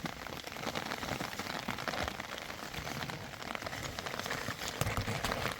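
Rain falling: a steady patter of many drops.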